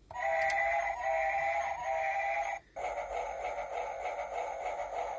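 Toy train's electronic sound chip playing a train effect through its small speaker. First come three steady horn-like toots back to back. After a brief break, a rhythmic train-running sound plays for about three seconds.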